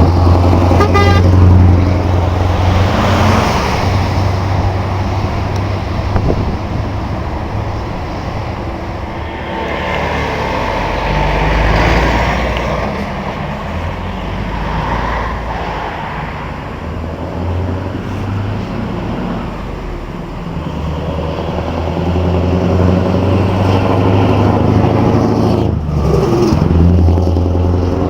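Heavy truck engines running with a steady low drone, with toots of a truck horn.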